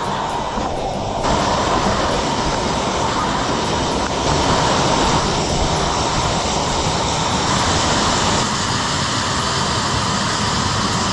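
Loud, steady rush of falling water from a waterfall, an even hiss and rumble with no breaks.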